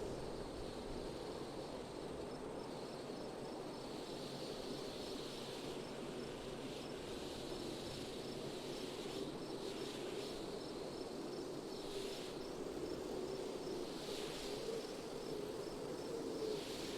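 Wind blowing steadily, with an insect chirping in an even rhythm of about three pulses a second high above it and a few soft rising and falling rushes.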